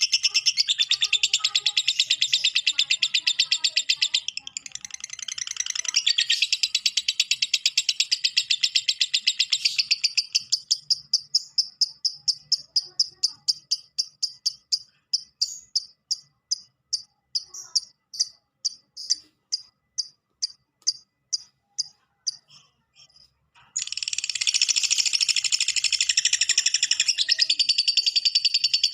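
Lovebird's long 'ngekek' chatter: a fast, continuous, high-pitched rattling trill. After about ten seconds it breaks into separate sharp notes that come slower and fainter. After a brief pause near the end, the rapid chatter starts again at full strength.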